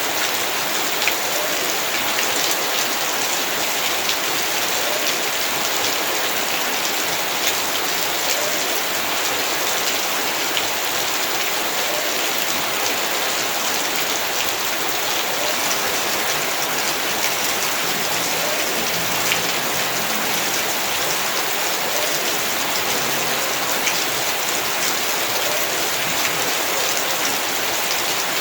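Heavy rain falling steadily on surfaces in a yard, a dense even hiss with many individual drop impacts.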